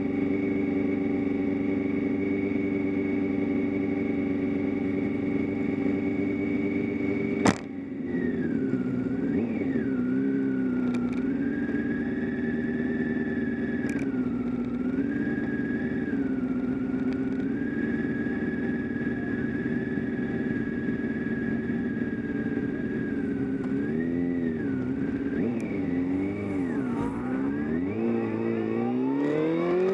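Motorcycle engine running on track: it holds one steady speed, then a sharp click sounds about a third of the way in. After that the revs rise and fall gently, then climb quickly near the end as it accelerates.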